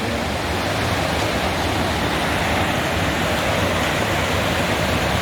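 Waterfall rushing: a steady roar of falling water that grows slightly louder.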